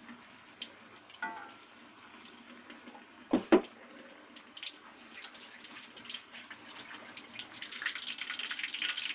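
Batter-coated quail frying in hot oil: a crackle of many small pops over a sizzle that grows denser and louder toward the end. Two sharp knocks come about three and a half seconds in.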